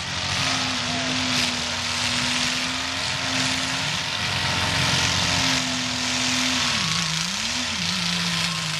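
Demolition derby cars' engines running and revving as the cars drive around the arena, over a steady noisy background. One engine note holds steady, wavers down and up about seven seconds in, then settles lower near the end.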